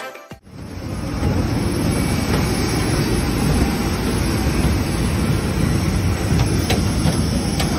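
Music cuts off, then a steady rumble and hiss of a moving vehicle runs on, with a couple of faint clicks near the end.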